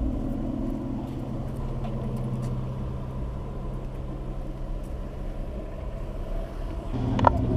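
Car engines running at low speed in a slow-moving queue of traffic: a steady low hum. It grows louder near the end, with one sharp click.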